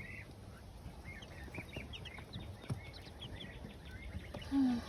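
Silkie chicks peeping, many short high cheeps scattered throughout, with one brief low cluck from the mother hen near the end.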